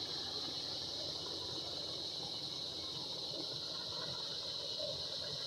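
Cicadas buzzing in a steady high drone, with the low rumble of a helicopter underneath.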